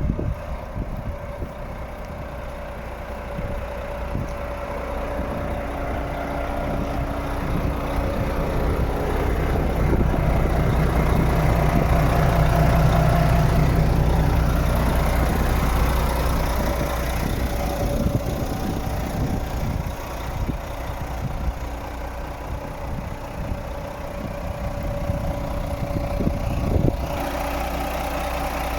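Renault Premium 380 truck's diesel engine running at idle. The sound grows louder through the middle and settles back, as if the revs rise gently and drop again.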